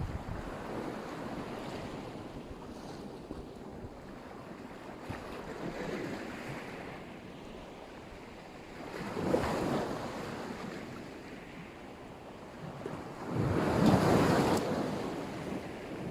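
Black Sea surf washing onto the shore, a steady wash of waves with two bigger waves breaking about nine and fourteen seconds in, the second the loudest.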